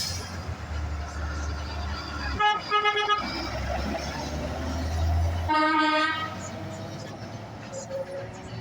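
A passing truck's air horn sounds several quick short blasts, then one longer blast a few seconds later: a hornshow for the truck spotter. Under the first blasts runs the low rumble of the truck's engine, which drops away as the long blast sounds.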